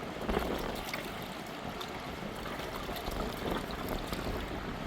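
River water rushing and splashing steadily, with a few faint splashes or knocks mixed in.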